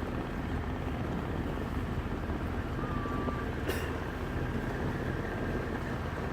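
Tour boat's engine running steadily with a low hum, and a single sharp click a little past the middle.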